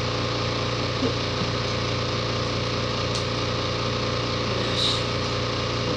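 A steady low mechanical hum from a motor or fan-like machine, with a few faint clicks of plastic toy parts being folded into place.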